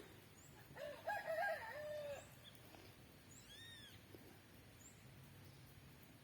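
A rooster crowing once, about a second in, followed shortly after by a brief high bird chirp.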